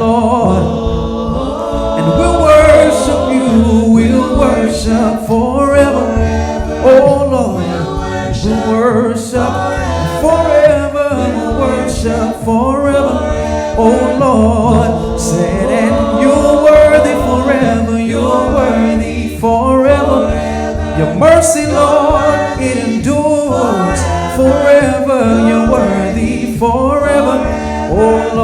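Gospel worship song: several voices singing together over instrumental accompaniment with a steady low bass.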